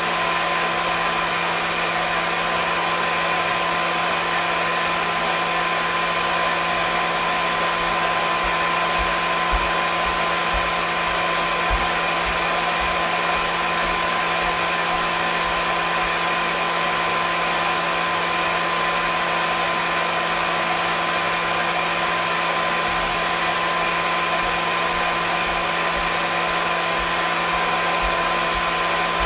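Hair dryer running steadily: a constant rush of blown air with an unchanging motor hum and whine.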